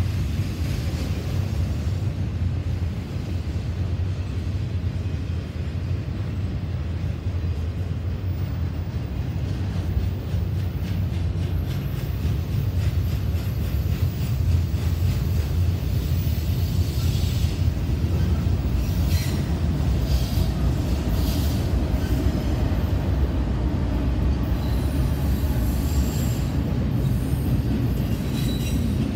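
Double-stack intermodal freight cars of a Norfolk Southern container train rolling past, with a steady heavy rumble of steel wheels on rail. From a little past halfway, short high-pitched wheel squeals come and go over the rumble.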